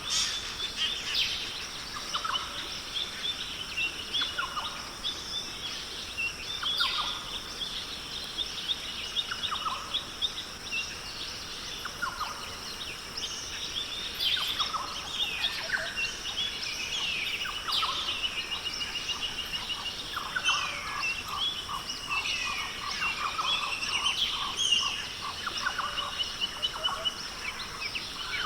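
Rainforest chorus: many birds calling, with short chirps, rising and falling whistles and quick trills, over a steady high-pitched insect drone.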